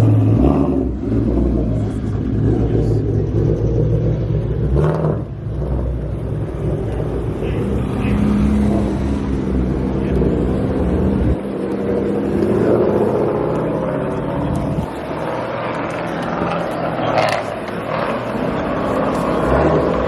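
Car engine running with a deep, low rumble and some steady engine tones; the low rumble drops away suddenly about halfway through, leaving lighter traffic and crowd noise.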